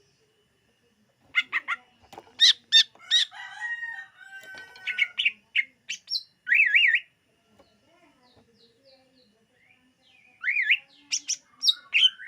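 Cucak ijo (green leafbird) singing: starting about a second in, quick bursts of loud whistled and warbled phrases, some with wavering up-and-down notes, broken by a pause of a few seconds before a further burst near the end.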